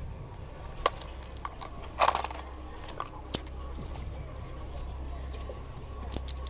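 Metal handcuffs being put on: a few sharp clicks, a louder rattling cluster about two seconds in, and a quick run of ratchet clicks near the end, over a steady low rumble.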